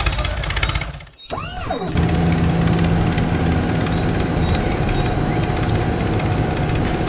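A small motor running steadily with a mechanical rattle, after a short swoosh at about a second in.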